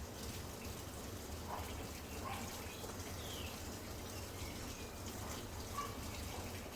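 Midea Wave-Agitator top-load washing machine mid-cycle: water trickling and splashing in the tub over a steady low hum, with faint scattered drips.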